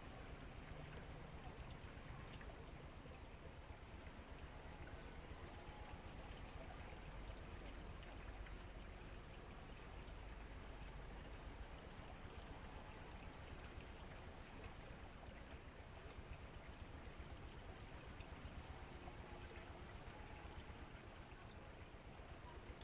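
An insect keeps up a thin, very high-pitched steady buzz in long runs of several seconds, broken by short pauses, over faint outdoor background noise.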